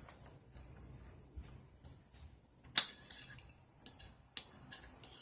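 Small sharp clicks and light taps of small metal parts and hand tools being handled on a work surface, the loudest about three seconds in followed by a quick run of clicks.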